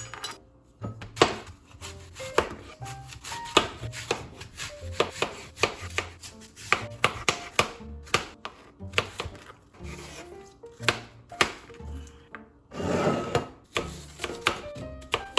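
Knife chopping on a cutting board in quick, irregular strokes, with a brief scrape near the end.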